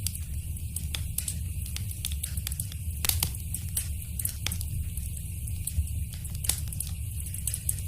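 Wood fire crackling in a fireplace: irregular sharp pops and snaps over a steady low rumble, with a few louder pops, one about three seconds in.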